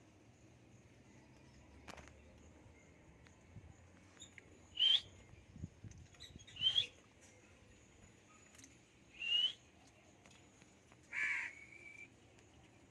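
Pet lovebirds giving four short calls, each rising in pitch, spaced about two seconds apart.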